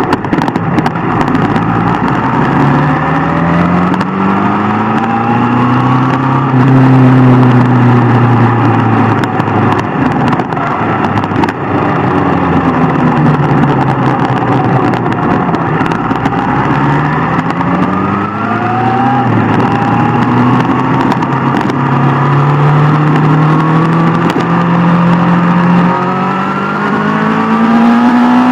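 Superbike engine pulling hard through the gears: the note climbs steadily over several seconds, drops at each upshift, and climbs again, several times over.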